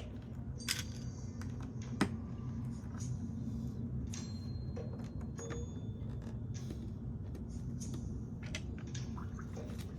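Small plastic LEGO pieces clicking and rattling as they are handled and pressed together, in irregular sharp clicks; the loudest are just at the start and about two seconds in.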